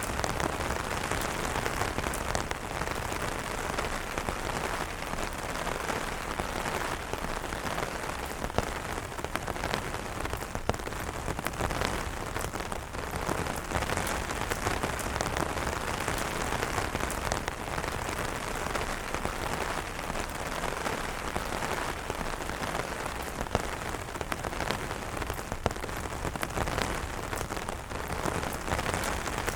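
Steady rain pattering on umbrellas, dense drops with an occasional louder single drop standing out.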